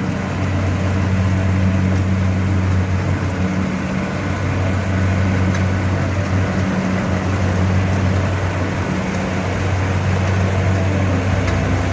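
Kubota DC70 combine harvester's diesel engine running steadily under load as the machine works through very sticky mud.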